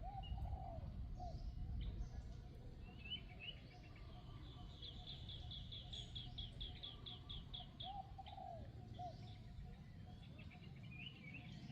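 Birds singing in the background: a rapid trill of high repeated notes, about seven a second, for a couple of seconds near the middle, with scattered chirps and a few short lower calls, over a steady low rumble.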